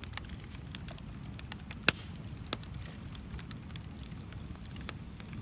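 Bonfire crackling with scattered small pops, one sharp loud pop about two seconds in and a smaller one half a second later, over a low rumble of wind on the microphone.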